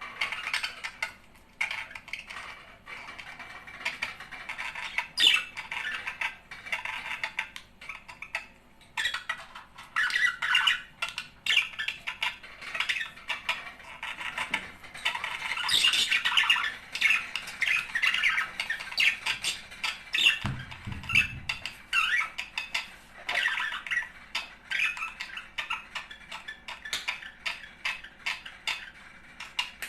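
Budgerigars chattering and warbling nonstop: a dense stream of scratchy chirps, squawks and clicks, the pair's courtship song. A brief low rumble comes about two-thirds of the way in.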